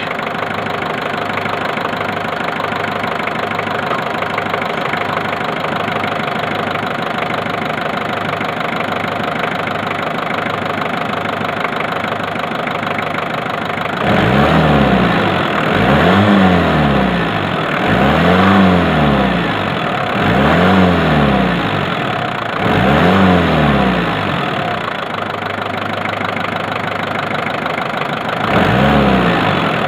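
Turbocharged car engine idling steadily, then revved about five times in a row from about halfway through, each rev rising and falling in pitch over a couple of seconds. It settles back to idle, then revs again near the end.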